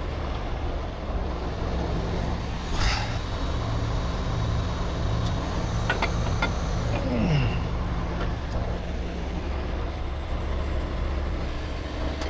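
Heavy-duty tow truck's diesel engine running steadily, with a few light clicks and knocks from the hook-up work.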